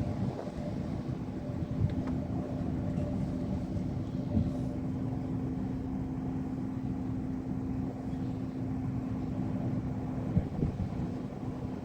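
Steady low motor hum with a constant drone tone over rumbling noise, and a few faint knocks.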